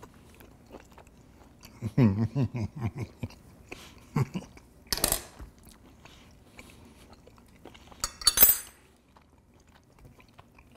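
A man chewing a mouthful of grilled ribeye steak, with a low falling hum of appreciation about two seconds in and a short breathy burst near the end.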